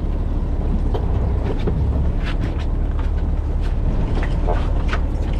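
Fishing boat's engine running with a steady low rumble, with a few faint short sounds above it.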